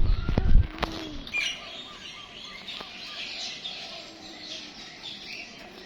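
Birds chirping and calling, many short overlapping chirps, with a few low bumps in the first second.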